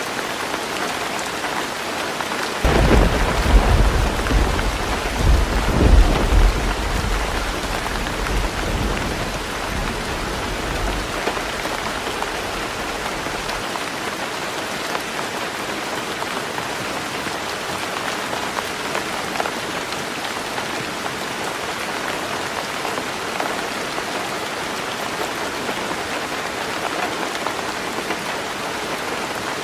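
Heavy rain falling steadily on a roof. About three seconds in, a loud rumble of thunder breaks in, swells twice and rolls away over the next ten seconds or so.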